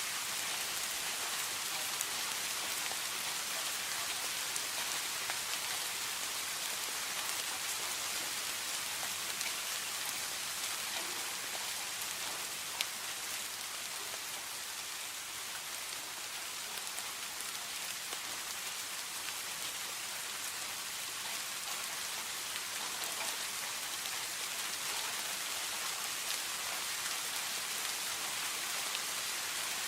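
Steady rain: a dense, even hiss of falling rain with scattered sharper drop ticks.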